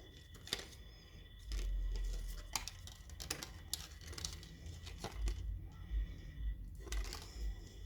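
Handling noise: scattered short clicks and crinkling, with several dull low thumps in the second half.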